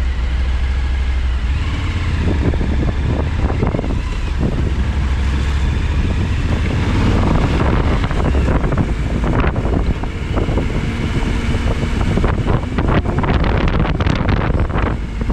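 Wind buffeting the action camera's microphone at riding speed, with the engine of a Suzuki V-Strom 1000XT, a V-twin, running underneath. There is a steady low drone for the first second and a half, then gusty rushing.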